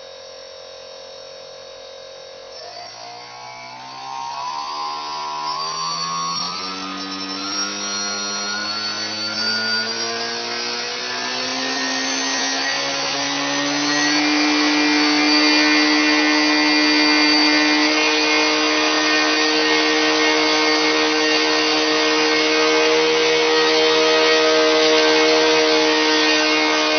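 Electric model-airplane motor being throttled up: a faint steady hum, then from about two and a half seconds in a whine that climbs slowly in pitch and grows louder, levelling off about halfway through into a steady, loud high-revving whine.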